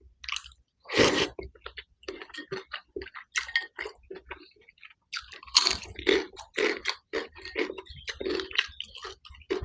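Close-up mouth sounds of a person eating milkfish head with omelette: a loud crunching bite about a second in, then steady wet chewing that pauses briefly around the middle and picks up again, louder.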